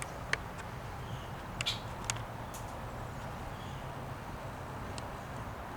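A bird giving several short, sharp, high call notes at irregular intervals, over a steady low hum.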